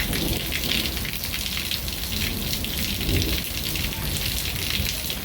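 Heavy rain pouring down: a dense, even hiss of countless drops striking the ground.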